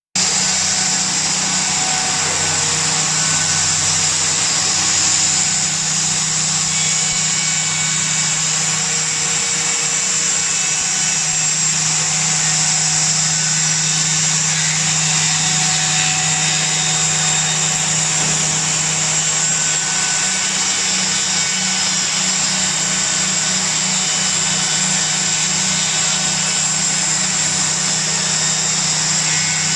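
Door panel sawing and milling machine running: a steady machine drone from its high-speed spindle motor, starting suddenly, with a low hum under a high whine.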